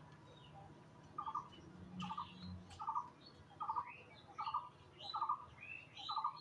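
A bird calling over and over, a short pulsed note repeated a little faster than once a second from about a second in, with higher chirps from birds between the calls.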